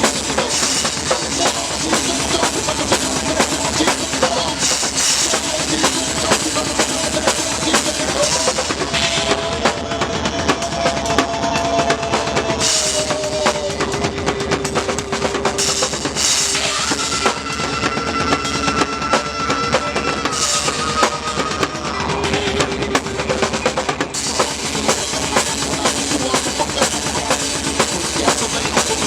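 A rock band playing live, with the drum kit loudest in the mix: dense bass drum and snare strikes, with a band playing around them. Long held notes ring over the drums in the middle.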